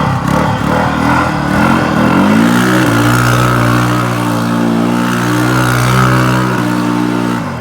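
Car engine revving up over about a second, then held at steady high revs for several seconds before cutting back near the end.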